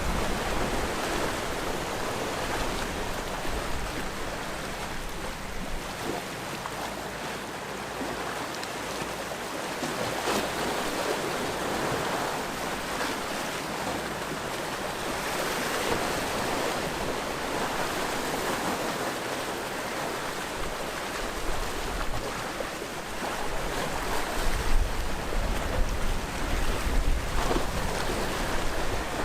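Sea waves washing onto a rocky shore, a continuous rushing that swells and eases every few seconds, with a low rumble of wind on the microphone near the end.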